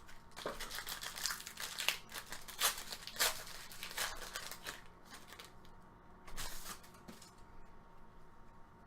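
Crinkling and rustling of 2018 Panini Prizm football card packs and cards being handled: a quick run of short crackly scrapes for about seven seconds, then quieter.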